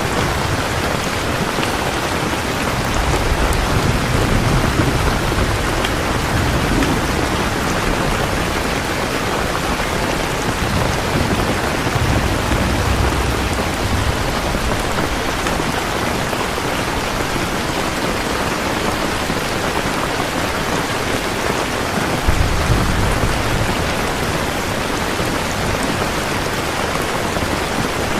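Steady, heavy rain pattering densely on surfaces. Three times a low rumble swells up underneath the rain and fades.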